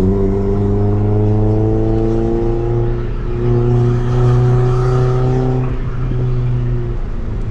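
Honda EF Civic's D15B1 four-cylinder running through a Tanabe Revel Medallion Touring S exhaust under way. Its note steps up at the start and climbs slowly. About three seconds in it drops, then holds nearly steady in a cruise.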